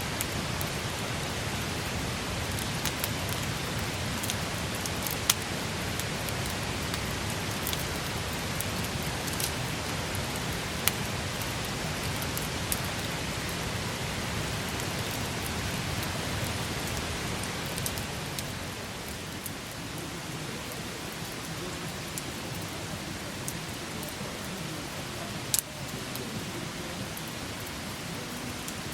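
Wood campfire burning with a steady hiss and crackle, and sharp pops now and then, the loudest about five, eleven and twenty-five seconds in. The fire gets a little quieter about two-thirds of the way through.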